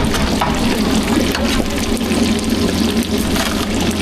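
Steady watery hiss with scattered clicks and clinks from food-stall cooking.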